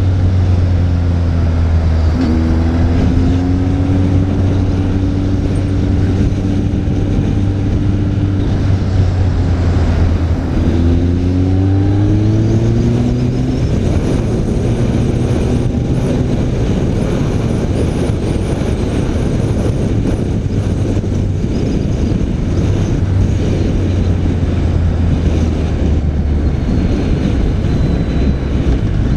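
BMW K1300R's inline-four engine running under way at a steady road speed, with wind noise over it. The engine note climbs for a few seconds about ten seconds in, then settles back.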